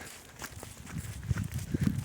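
Footsteps crunching on snow and ice, with a low rumble swelling up about two thirds of the way in.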